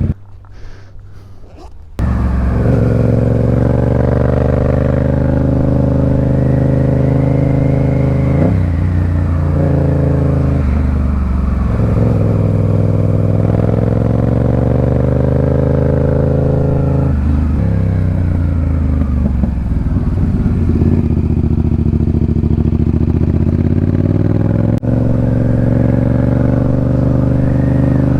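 Motorcycle engine running under way from the rider's seat. It is quiet for the first couple of seconds, then loud, its pitch climbing and dropping at several gear changes.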